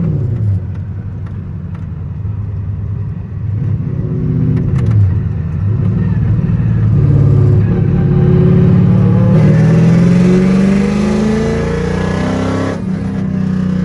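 Car engine being revved: the pitch drops, rises in a short rev, then climbs in a long rev that cuts back sharply near the end.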